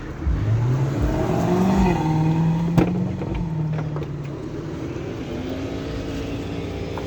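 A motor vehicle engine rising in pitch over the first two seconds, holding, then dropping about four seconds in, after which a steadier hum carries on. A sharp click comes near the middle.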